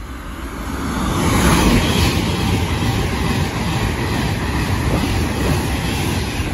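Express passenger train passing at speed along a station platform without stopping. The rushing noise swells over the first two seconds, holds steady as the coaches go by, and drops away as the last coach clears, right at the end.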